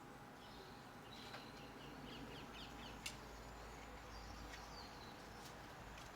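Faint garden birds calling, with a quick run of short, high, falling notes in the middle, over a low steady background hum. A single sharp click sounds about three seconds in.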